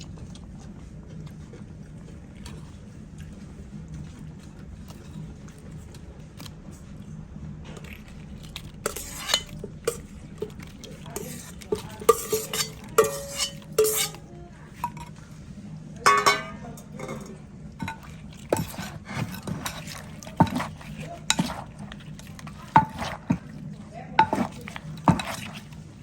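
Pounding and mixing shrimp salad in a mortar: irregular knocks and clinks of pestle and spoon against the mortar, starting about eight seconds in, over a steady low hum.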